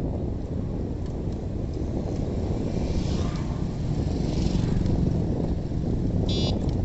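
Wind rumbling on a handheld phone's microphone while riding through traffic, with a short high-pitched beep near the end.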